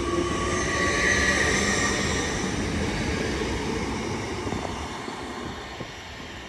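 Class 802 train pulling away: a whine that rises in pitch over a steady rumble, then fading as the train draws off.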